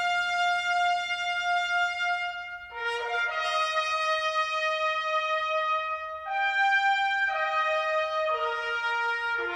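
Music: a trumpet-like brass instrument playing slow, long held notes, the pitch stepping to a new note every one to three seconds.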